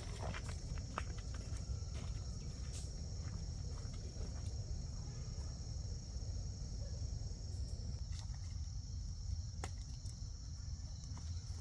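Steady, high-pitched drone of insects over a low rumble, with a few faint clicks.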